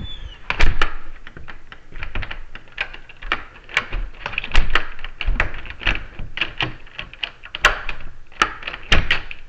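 Rapid, irregular clicking and light tapping of small metal door hardware being worked by hand, some clicks sharper and louder than others.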